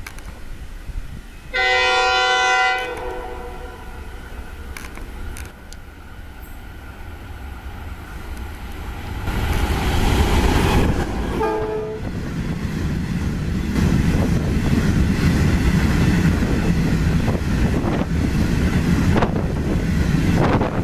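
Pacific National NR-class diesel-electric locomotive NR120 sounds its horn in one blast of just over a second about two seconds in, and a shorter blast around eleven seconds, as it approaches and passes. Its diesel engine runs by close at about ten seconds, followed by the steady rumble and clatter of its limestone hopper wagons rolling past.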